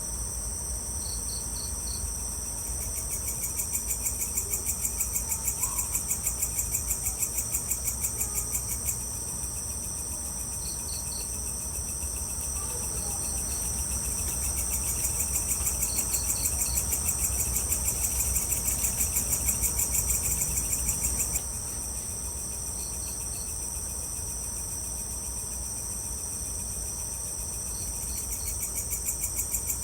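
Evening insect chorus: a steady high shrilling of crickets, with one insect trilling in rapid pulses in two long bouts, one about 3 seconds in and one from about 14 to 21 seconds. Short bursts of three or four chirps come every few seconds, over a steady low rumble.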